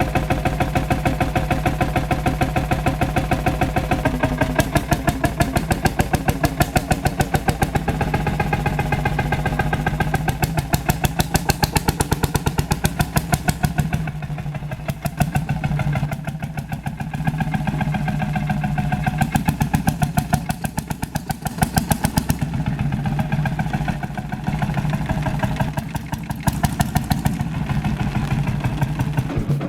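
Ursus C-451 tractor's single-cylinder two-stroke hot-bulb engine running with a rapid, even exhaust beat. Its loudness eases off for a few seconds about halfway through and briefly again later.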